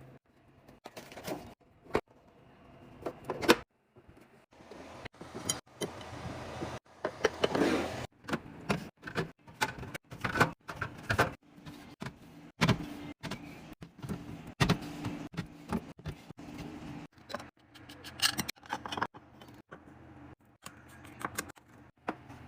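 Household items being handled during restocking: a run of clicks, knocks and rattles, with a longer stretch of rustling or pouring-like noise about five to eight seconds in.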